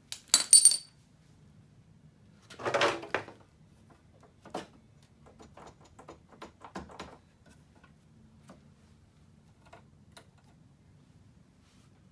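Small metal parts and hand tools being handled on a workbench. There is a sharp metallic clatter with a brief ring just after the start, a short scraping rustle about three seconds in, then scattered light clicks and taps.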